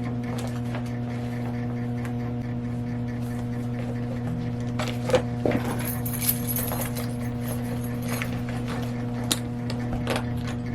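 A steady low electrical hum, with a few light clicks and jingles of small objects being handled about halfway through and again near the end.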